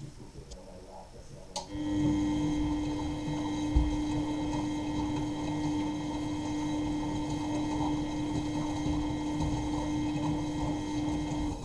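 Miele Novotronic W923 front-loading washing machine in its cottons wash: a click, then the drum motor runs with a steady hum and whine over the rumble and slosh of the turning drum for about ten seconds, then cuts off near the end.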